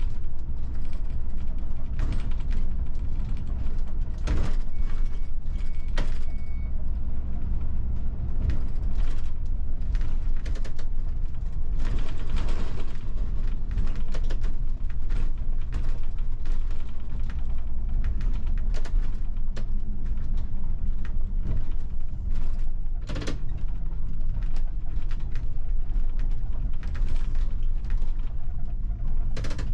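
Inside the cab of a bus on the move: the steady low rumble of the engine and road, with frequent creaks, clicks and rattles from the bus's body and fittings.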